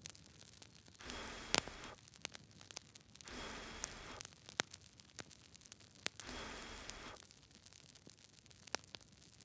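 Campfire crackling, with sharp pops scattered throughout. Three times, a soft hissing swell just under a second long comes and goes.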